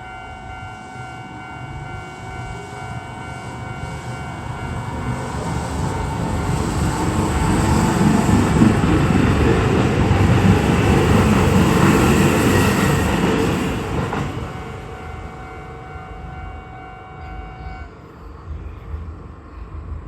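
A Keisei Chiba Line train passing over a level crossing, its rumble building to a peak in the middle and fading away. The crossing's warning bells ring steadily throughout and cut off a couple of seconds before the end, as the crossing clears.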